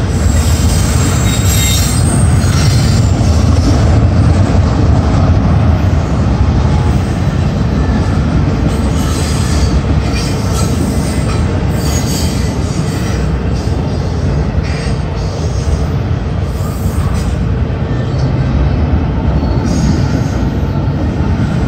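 Freight train of double-stack intermodal well cars rolling past at close range: a steady loud rumble of steel wheels on the rails, with brief high-pitched wheel squeals now and then.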